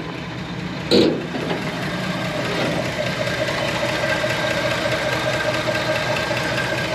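The 1964 Chevrolet Impala SS's engine idling steadily, nice and quiet, with a single short knock about a second in.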